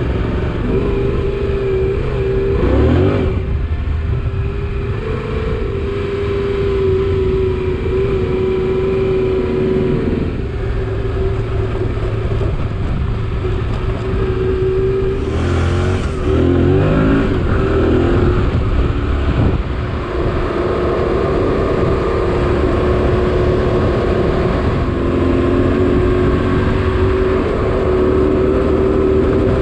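Motorcycle engine running under way on a dirt road, with wind rushing over the microphone; the revs rise through gear changes about three seconds in and again around the middle.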